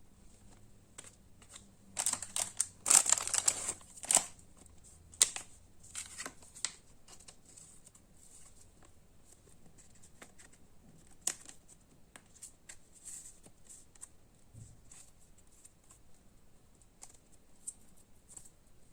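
Pokémon card booster-pack packaging crinkling and tearing, loudest for about two seconds near the start, then lighter rustles and small clicks of cards being handled.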